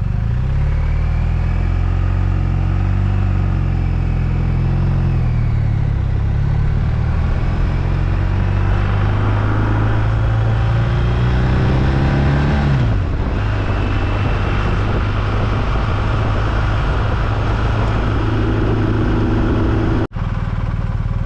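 BMW R1250RT's boxer-twin engine running on the move, with wind and road noise. The engine pitch holds fairly steady, then falls sharply about thirteen seconds in and settles lower. The sound cuts out for an instant near the end.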